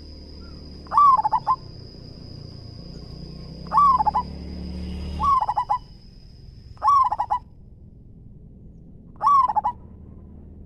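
Zebra dove cooing: five short stuttering coo phrases a couple of seconds apart, each a quick rising note that breaks into a rapid string of notes. A steady thin high tone runs beneath and stops about three quarters of the way through.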